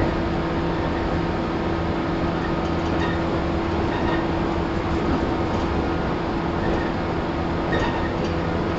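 Interior running sound of a JR 115 series 1000-subseries electric multiple unit, heard inside the KuMoHa 115 motor car: a steady rumble with a hum of constant pitch as the train runs at an even speed, and a few faint clicks.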